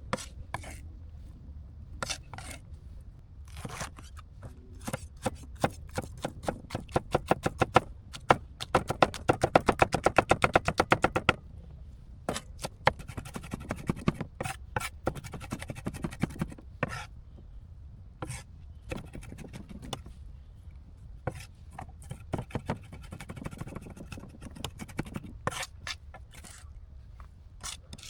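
Knife chopping on a cutting board: scattered cuts and knocks, with a fast, even run of about ten chops a second lasting roughly three seconds near the middle.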